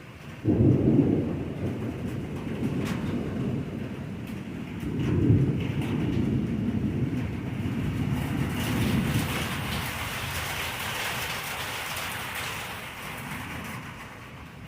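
A thunderclap breaks in suddenly about half a second in and rumbles on, swelling again about five seconds in, over steady rain. The rain's hiss grows heavier in the second half.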